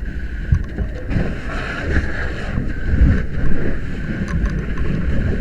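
Fire hose nozzle flowing water during an interior attack: a steady rushing hiss over a low, uneven rumble.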